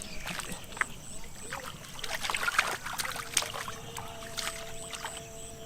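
Shallow field water being splashed and sloshed by hand in an irregular run of splashes, busiest from about two to three and a half seconds in.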